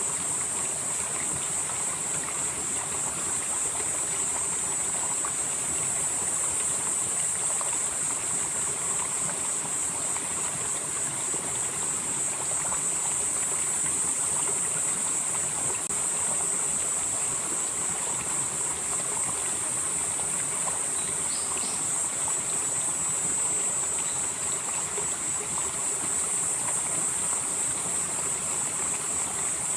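Valley stream flowing steadily, with a continuous high-pitched insect chorus over the water that swells and eases now and then.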